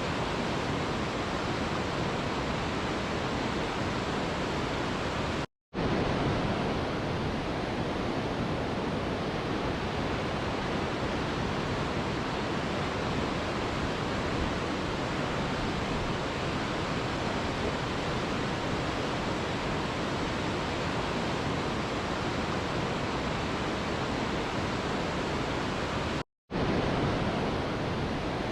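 Mountain river rushing over rocks, a steady, even roar of water, broken twice by a split-second silence.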